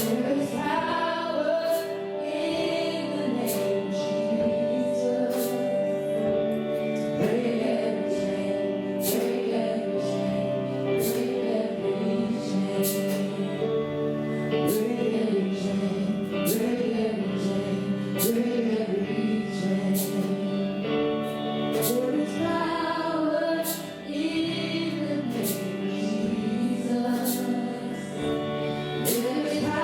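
Gospel worship song: voices singing over sustained instrumental accompaniment with a regular percussive beat.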